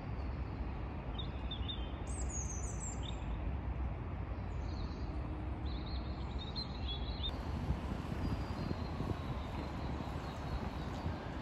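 Small birds chirping in short calls over a steady low outdoor rumble, the chirps coming several times in the first seven seconds.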